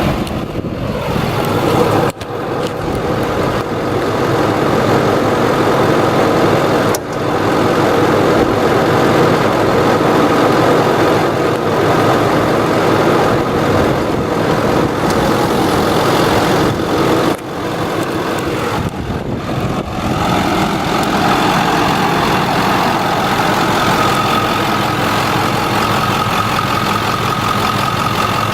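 Ford 6.4L Power Stroke V8 turbodiesel idling steadily. The sound drops out abruptly for an instant three times, and a thin steady whine stands out over the idle in the last third.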